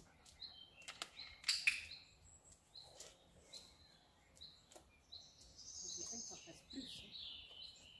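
Small birds chirping repeatedly. About a second and a half in, a sharp double click from a dog-training clicker, marking the dog's move as right in a shaping exercise.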